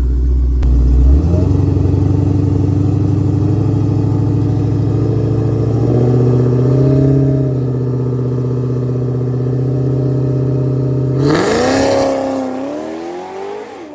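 Drag car launching off the line and running a full-throttle pass: a low rumble at the start jumps to a high, steady engine note about a second in, with a brief rise and fall around six seconds and a sharp upward sweep near eleven seconds, then fades as the car runs away.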